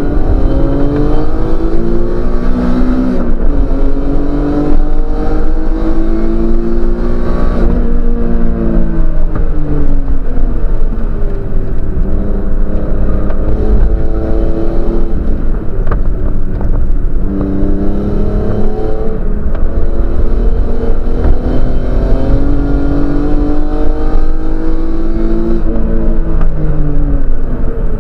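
Race car engine heard from inside the cabin, revving up through the gears with sharp drops in pitch at each upshift, then winding down as the driver brakes and downshifts for corners, several times over. A steady low road and cabin rumble runs beneath it.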